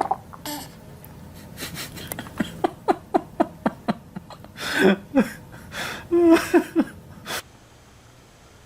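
Laughter: a run of quick, short laughing pulses, about five a second, followed by a few louder, longer bursts of laughter.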